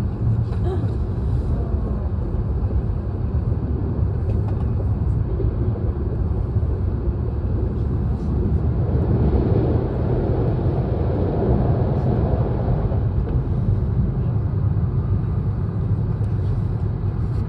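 H5 series Shinkansen train running, heard from inside the passenger cabin: a steady low rumble that swells for a few seconds around the middle.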